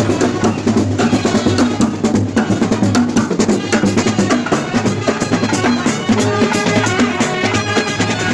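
Procession drumming with rapid, dense strikes; a melody joins about six seconds in.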